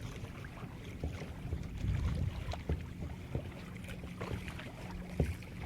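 Wind rumbling unevenly on the microphone aboard a small sailboat, with scattered light knocks and ticks.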